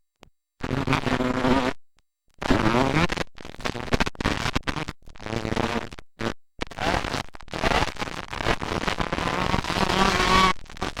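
Motocross dirt bike engines buzzing and revving, the pitch rising as the bikes accelerate. The sound cuts out abruptly to silence a few times, near the start and around two and six seconds in.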